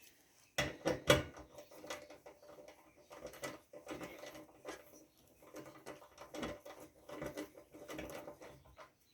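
Metal tool and engine parts clicking and scraping as a screw is fitted and turned into a small engine's cylinder head. Irregular light clicks and rattles, with two sharper knocks about half a second and a second in.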